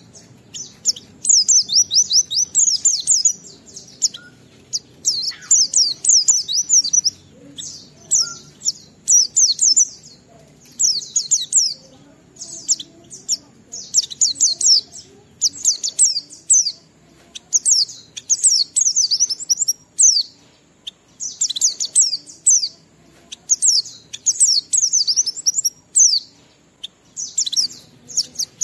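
White-eye (pleci) singing in full 'ngalas' song: rapid, high-pitched twittering phrases of quick sliding notes, each lasting a second or two, delivered one after another with short pauses between them.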